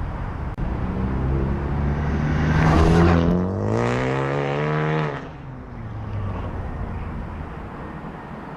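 2015 Ford Focus ST's turbocharged 2.0-litre four-cylinder, fitted with a catless downpipe and an electronic exhaust cutout, accelerating hard. The revs climb, break and fall back about three seconds in as it shifts up, then climb again. About five seconds in the throttle closes and the engine drops to a quieter, steadier sound.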